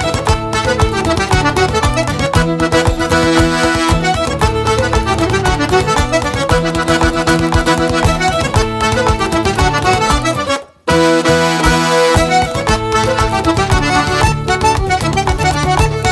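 Traditional Québécois dance tune played by accordion, fiddle and guitar, with the accordion leading. About eleven seconds in the music stops dead for a moment and then comes straight back in.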